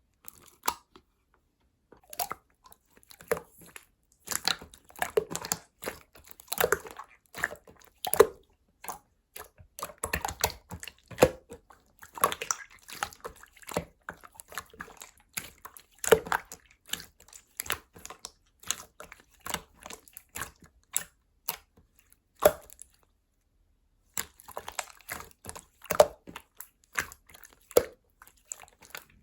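Yellow slime being squeezed and worked by hand, making irregular wet clicks, pops and crackles in uneven runs, with a short pause about three-quarters of the way through.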